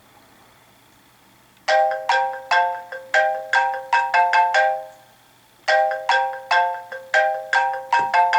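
iOS 7 preset ringtone playing from an iPod touch speaker. It is a quick melodic phrase of about nine bright, bell-like struck notes, heard twice with a short pause between, starting about two seconds in.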